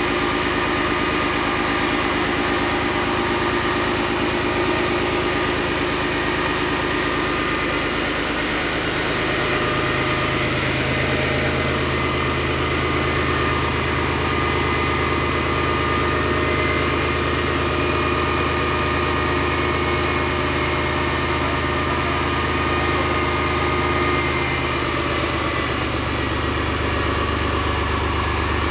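Deutz F12L413 air-cooled V12 diesel engine running steadily. About ten seconds in, its low hum grows stronger and settles into an even drone.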